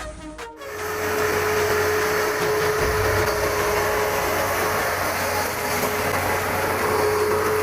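A heavy vehicle's engine running steadily with a constant whine, starting about half a second in as electronic music cuts off.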